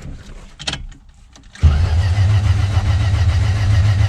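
A few faint clicks and knocks, then about one and a half seconds in a car engine comes in abruptly and runs steadily, loud and low-pitched.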